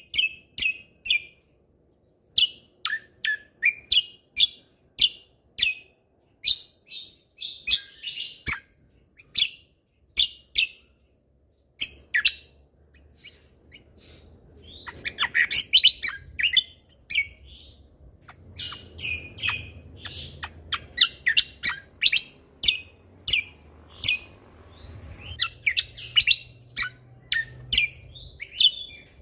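Captive cucak kombo (kecial kombo) singing vigorously: loud, sharp chirps and whistled phrases. The bird pauses briefly about ten seconds in, then breaks into dense, rapid runs of notes.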